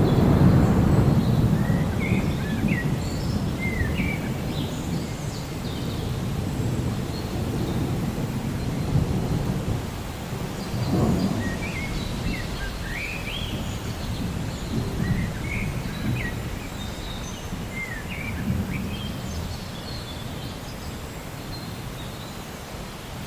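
Steady rain with low rolls of thunder, loudest at the start and again about halfway through, while birds chirp with short high calls throughout.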